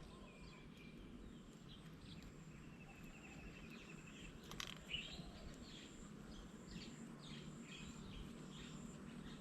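Faint wild birds calling: a short rapid trill about two seconds in, then scattered short chirps, with one faint click near the middle.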